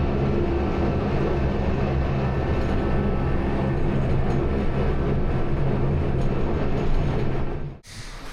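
Electric mountain railway train running steadily, its motors humming with a steady low rumble. The sound cuts off sharply just before the end.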